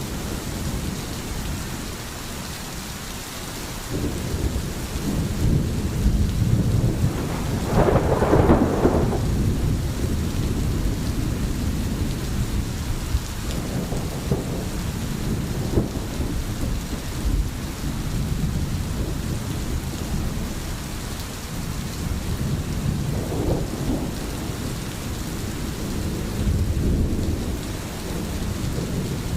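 Steady rain with low rolling thunder rumbling underneath; the thunder swells loudest about eight seconds in and again more briefly past twenty seconds.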